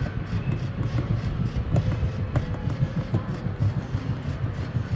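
Small motorcycle running at low speed: a steady low rumble that pulses rapidly.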